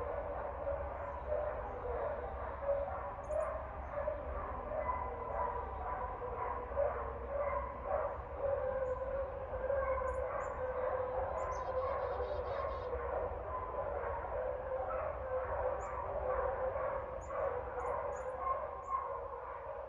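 Dogs barking on and on in a dense, irregular string of barks, with a few faint bird chirps above.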